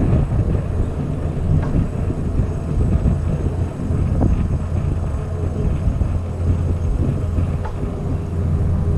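Wind rushing over the microphone with a steady low rumble while riding a Heybike Explore e-bike along the trail.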